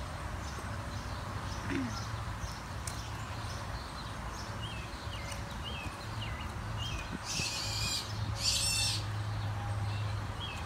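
Outdoor ambience: a small bird chirping over and over in the second half, with two short hissing bursts near the end and a low steady hum underneath.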